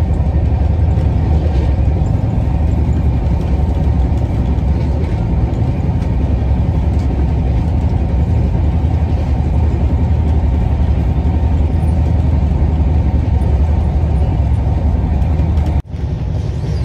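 Steady low rumble of a moving passenger train, heard from inside the coach. It breaks off sharply for a moment near the end.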